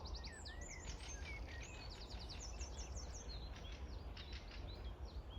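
Several small songbirds singing and chirping: short whistled and curved notes, with a rapid trill about halfway through, over a steady low background rumble.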